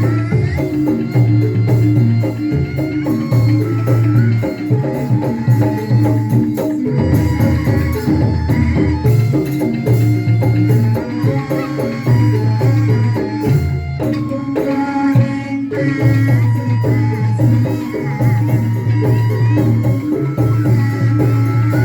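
Live band music with a steady beat: drums, a repeating bass line and shaker-like percussion under a melody.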